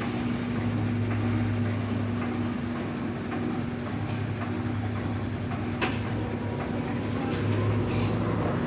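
Electrolux LF75 top-loading washing machine washing, its motor humming steadily in spells as the load is churned, with a few faint clicks.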